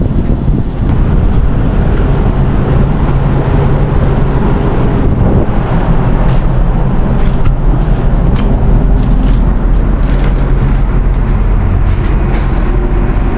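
Helicopter engine and rotors running with a loud, steady drone and a deep hum.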